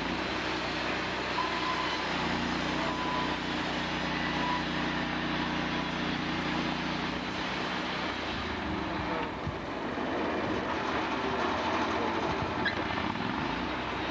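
Sawmill machinery running steadily with a constant engine-like drone. Its low tone shifts about two seconds in and again around eight seconds.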